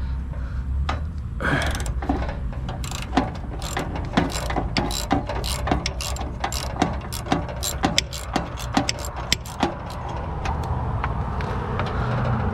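Hand ratchet wrench clicking in quick, uneven runs as bolts are worked loose on scrap metal, stopping about ten seconds in.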